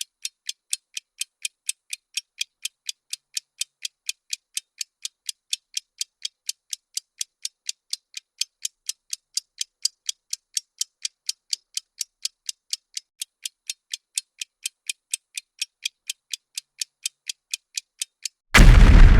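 Bomb-timer ticking sound effect: crisp, high clicks at a steady pace of about four a second. Near the end the countdown hits zero and a loud explosion sound effect with a deep rumble breaks in.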